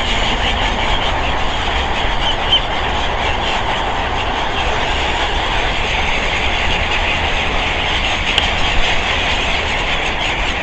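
Steady outdoor background roar, a continuous rumble and hiss with no distinct events.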